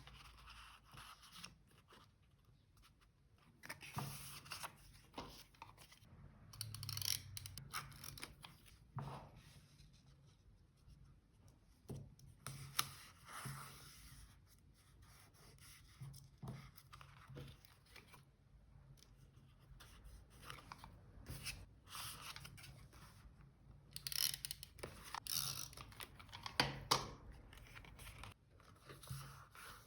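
Paper crafting at close range: paper being torn and snipped with scissors and rustled as it is handled. The sounds come in irregular bursts with quieter pauses between them.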